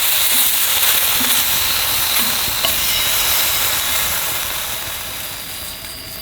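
Steak sizzling and frying over a campfire, a loud steady hiss that gradually eases off in the last couple of seconds.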